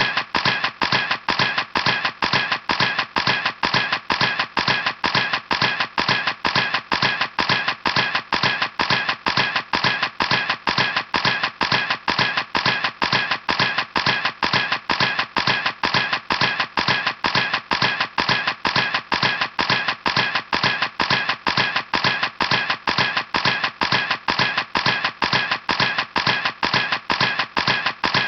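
A camera's mechanism clicking over and over in an even rhythm, about three sharp clicks a second, unchanging.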